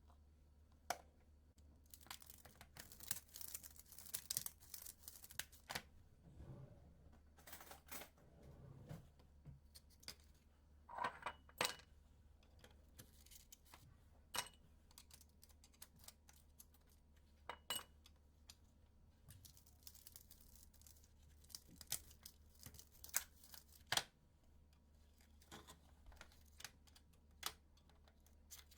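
Small handling sounds: scattered light clicks and taps, with stretches of rustling about two to six seconds in and again about twenty seconds in, over a faint steady low hum.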